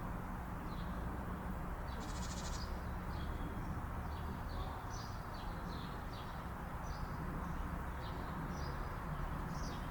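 Small birds chirping, short high calls every second or so, with one longer buzzy call about two seconds in, over a steady low rumble.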